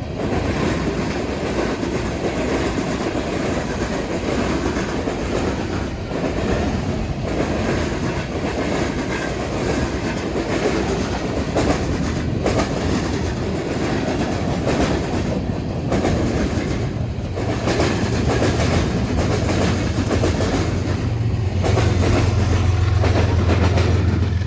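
BNSF train's cars rolling past, wheels clattering over the rail joints and the diamond crossing. A low drone comes in about two-thirds of the way through and grows louder toward the end.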